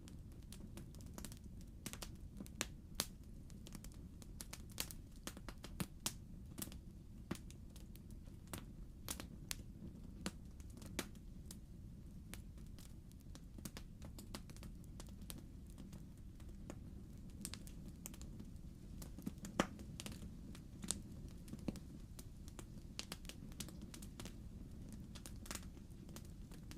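Wood logs burning in a fireplace, crackling with irregular sharp pops and snaps over a steady low rush of the fire.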